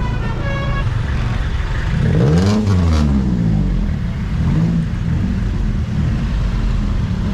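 Engines of a traffic jam rumbling at low speed, with one vehicle's pitch rising and falling about two seconds in, as if revving.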